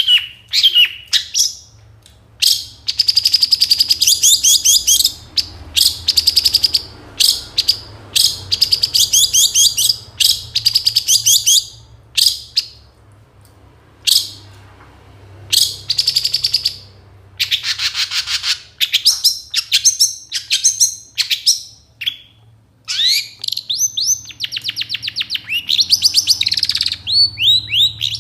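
Long-tailed shrike (cendet/pentet) singing a loud, fast, varied song of sharp chirps and rattling trills in bursts of a second or two, with a longer unbroken run near the end. It is the shrike's 'full isian' song, packed with phrases mimicked from other birds.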